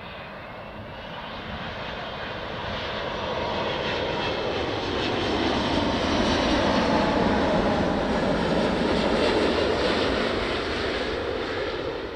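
Airbus A380-800's four jet engines on final approach, passing overhead before touchdown: a rushing engine noise with a faint whine that grows louder, is loudest a little past the middle, then fades.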